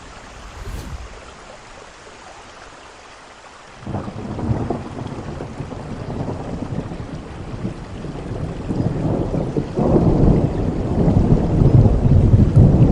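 Steady rain with thunder: a low rumble breaks in suddenly about four seconds in and builds, rolling loudest near the end.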